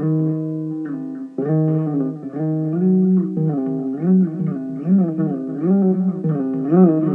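Electric mandolin music: a slow melody of held notes that bend and waver in pitch, over a steady low note.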